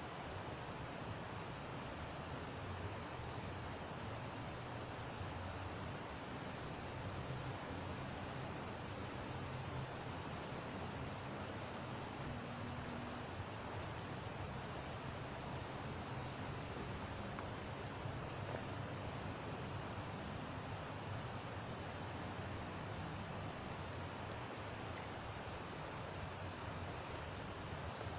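Insects droning steadily in one unbroken high tone over an even background hiss.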